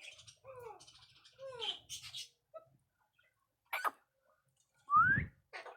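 Pet parrots calling: a string of short falling notes, several times a second, with hissy squawks among them, then a sharp click and, near the end, a single loud rising call.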